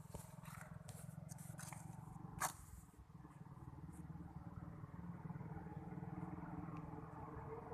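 Motorcycle engine running at low speed, a faint steady rumble, with one sharp click about two and a half seconds in.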